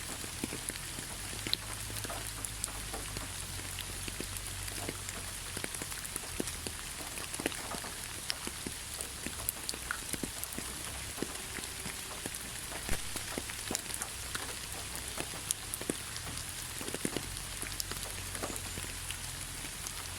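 Heavy rain falling steadily, an even hiss with many separate drops ticking and spattering on a surface.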